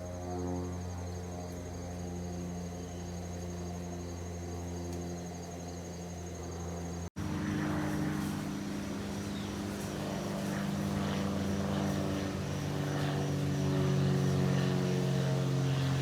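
Piston engine and propeller of a light general-aviation airplane droning as it climbs out on departure overhead. The sound cuts out abruptly about seven seconds in, then the drone resumes and grows louder.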